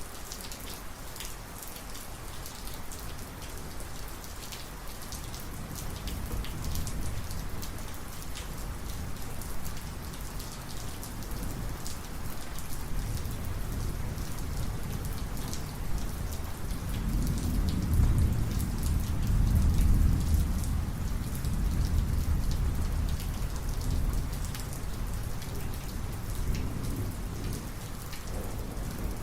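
Steady heavy rain with the patter of individual drops, under a long rolling rumble of thunder that builds over several seconds, peaks about two-thirds of the way through, then eases off.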